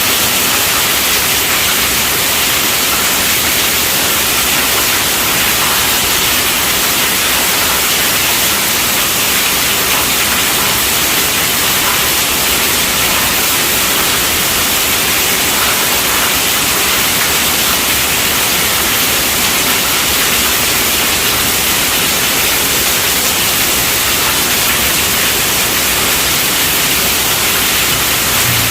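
Heavy rain falling on a tent roof: a steady, dense hiss.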